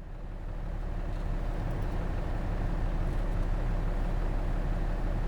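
Hino Rainbow RJ city bus's J08C inline-six diesel engine idling at a standstill, heard from inside the passenger cabin. It is a steady low rumble that fades in over the first second.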